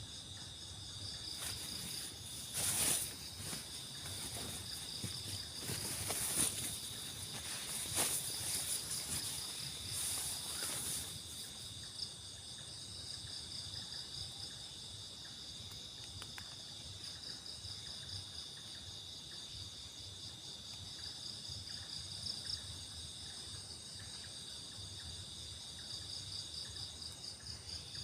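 Insect chorus of crickets or similar, a steady high-pitched chirring. A few sharp knocks or rustles sound close by during the first ten seconds.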